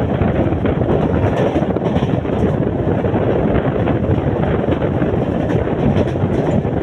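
Wind buffeting the microphone over the steady running noise of an express train's coaches at full speed, heard from an open coach window.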